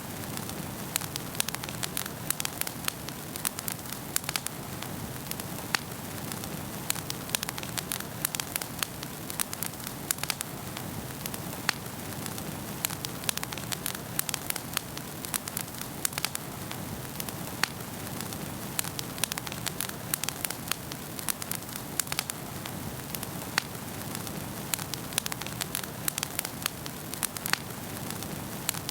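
Wood fire burning in a fireplace, crackling with many sharp irregular pops and snaps over a steady low rush of flames.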